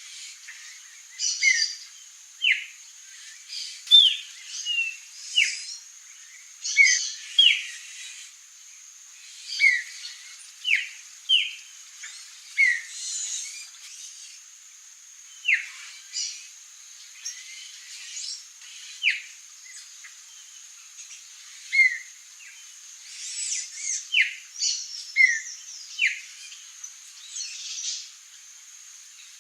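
Songbirds calling: many short, sharp chirps and chip notes in irregular bursts, over a steady high-pitched hiss.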